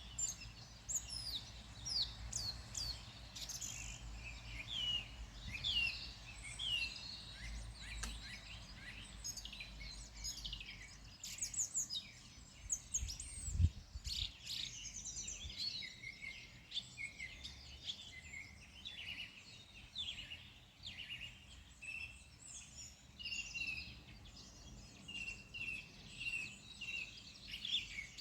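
Several wild birds singing and calling over one another, with many quick chirps and trills. A low rumble sits under the first half, and a single dull thump comes about halfway through.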